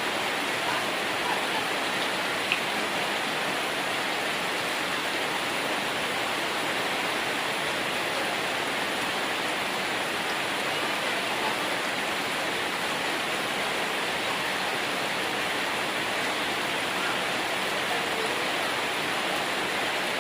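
Heavy rain pouring down steadily, a constant even hiss of downpour and rushing water with no pauses.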